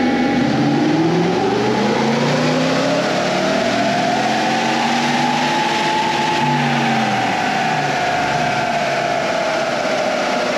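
LS1 V8 in a Jeep CJ doing a dyno power run on a chassis dynamometer: the revs climb smoothly for about six seconds, then fall away as the engine comes off the throttle and coasts down.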